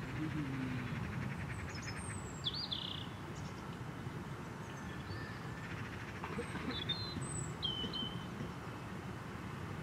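Small birds chirping now and then, with a few short calls about two and a half and seven seconds in, over a steady low background rumble.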